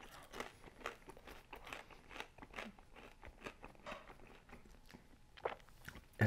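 A mouthful of crispy thin-crust pizza being chewed with a run of irregular crunches.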